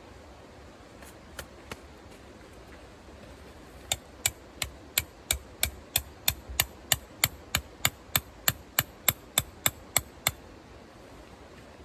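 A tent stake being driven into the ground with a hammer: two light taps, then about twenty quick, even strikes, roughly three a second, which stop about two seconds before the end.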